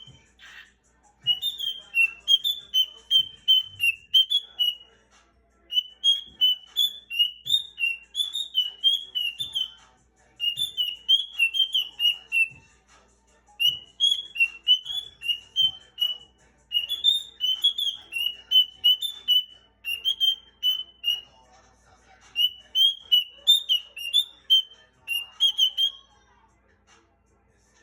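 Pet bird singing to its reflection in a mirror: phrases of quick, high whistled notes, each a few seconds long, with short pauses between.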